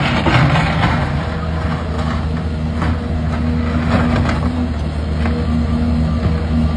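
XCMG XE265CT crawler excavator's diesel engine running steadily under load, with scattered short knocks and clanks from the digging and loading.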